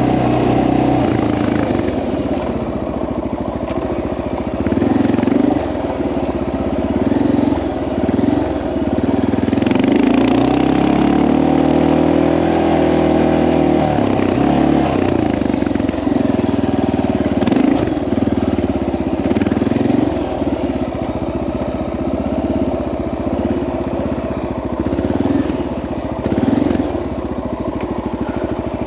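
Dirt bike's single-cylinder four-stroke engine under way, the revs rising and falling again and again as it is throttled and shifted. There is one longer climb in pitch about ten seconds in, easing back down a few seconds later.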